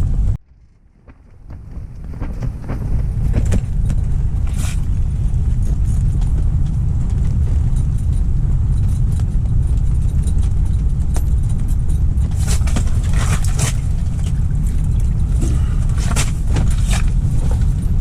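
Strong wind buffeting the microphone: a loud, steady low rumble. It drops out almost completely for about a second near the start and builds back over the next two seconds, and a few clicks and rattles come through later on.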